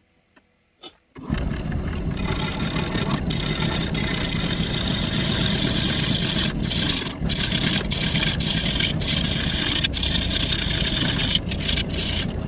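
A cheap wood lathe is switched on about a second in and spins a heavy, off-balance walnut blank at its lowest speed of 600 RPM, running loudly and steadily. It is switched off near the end and winds down.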